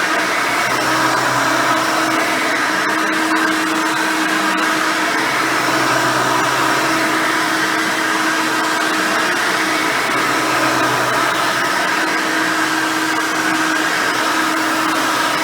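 A Hoover Elite 600 upright vacuum cleaner with a single-row brush roll running steadily. Its hum note fades for a few seconds midway and then returns.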